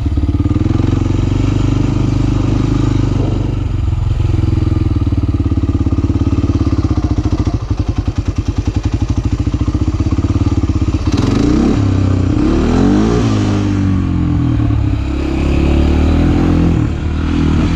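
Motorcycle engine running while being ridden. The engine note pulses unevenly for a couple of seconds past the middle, then the revs rise and fall several times.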